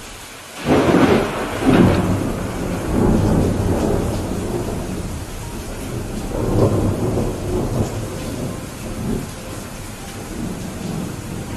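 Thunderclap over steady rain. A sharp crack comes about a second in and a second crack follows soon after, then a low rumble rolls on and fades over several seconds while the rain keeps falling.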